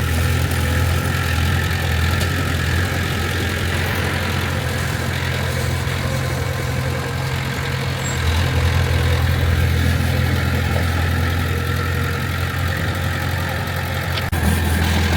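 Heavy diesel engine of earthmoving machinery running steadily at a low, even pitch, getting a little louder about eight seconds in.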